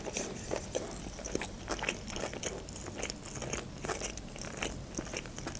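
A mouthful of salmon-topped sushi roll being chewed, with many short wet clicks and smacks of the mouth.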